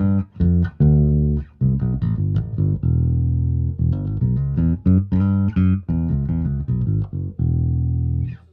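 Gibson Thunderbird electric bass with Lollar pickups and stainless steel DR Lo-Rider strings, played as a quick run of plucked notes that stops suddenly near the end. Its notes have what sounds like a compressor-like attack, a cool compression at the front of the note.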